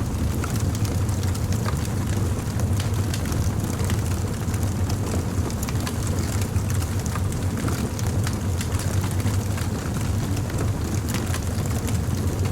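Wood fire burning with a steady low rumble and frequent small crackles and pops.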